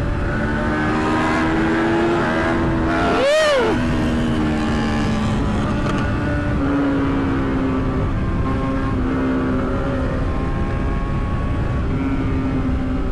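Sportbike engines running on the road, with wind noise on the microphone. About three and a half seconds in, one engine revs up sharply and drops straight back.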